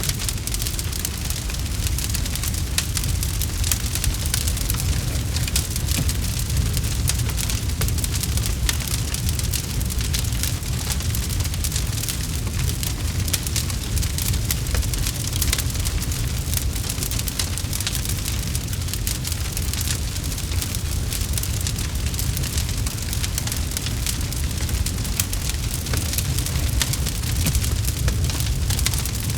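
Campfire crackling: a dense run of small sharp pops and snaps over a steady low rumble from the burning fire.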